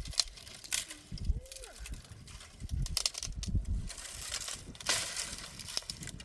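Irregular rustling and crackling handling noise, with a brief rising-and-falling squeak about a second and a half in.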